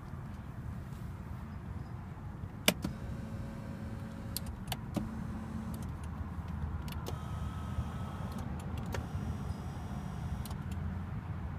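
Electric power-seat adjustment motors running in short stretches, with sharp clicks from the seat switches and trim, over a steady low hum.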